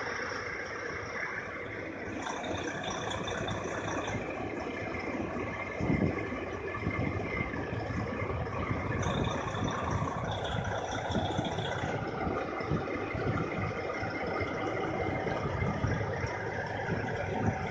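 Semi truck's diesel engine running steadily, with a brief knock about six seconds in.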